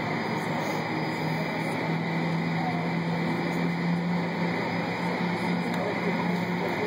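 Boeing 747-400 jet engines running at idle as the airliner taxis in to the gate: a steady jet noise with a low, even hum underneath.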